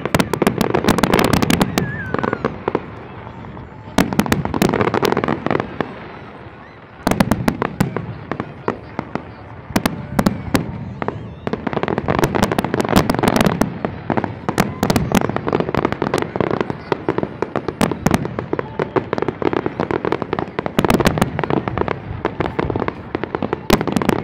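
Fireworks display: many aerial shells bursting and crackling in rapid, overlapping bangs. The bangs ease off briefly around three and six seconds in, then run as a nearly continuous barrage for the second half.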